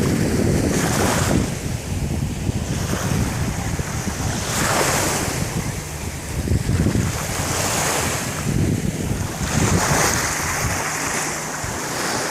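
Rough, choppy Gulf of Mexico surf breaking on the beach, a steady wash that swells every two to three seconds, with wind buffeting the microphone.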